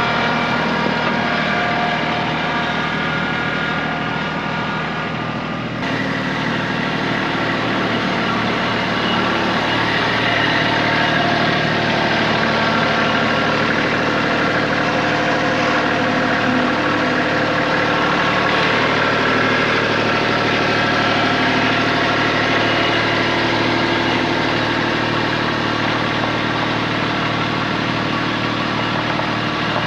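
Kubota tractor's diesel engine running steadily, with an abrupt change in its sound about six seconds in.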